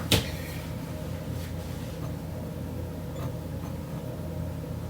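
Sharp clicks of kitchen items being handled: one just after the start and another at the end, with a few faint ticks between, over a steady low hum.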